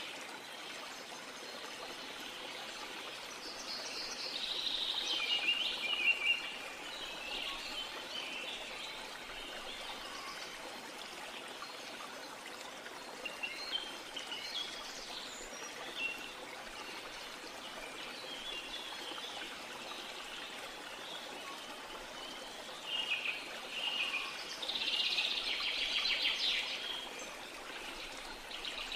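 Small birds chirping in short clustered calls over a steady hiss of outdoor ambience, busiest about four seconds in and again near the end.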